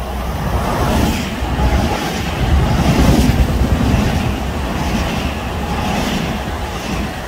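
Metro-North electric multiple-unit commuter train passing close by at speed without stopping. Its rumble and wheel noise on the rails swell to their loudest about three seconds in, then ease as the last cars go by.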